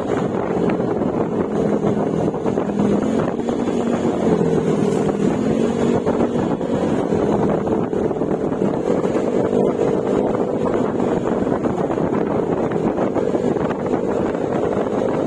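Yamaha Mio Gravis scooter's 125cc single-cylinder engine running at a steady cruise through an Akrapovic exhaust with silencer, its pitch rising and falling slightly with the throttle. Wind rushes over the microphone throughout.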